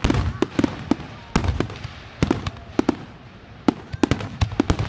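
Aerial fireworks display: an irregular, rapid string of sharp bangs and crackling pops, more than a dozen in a few seconds, over a continuous low rumble.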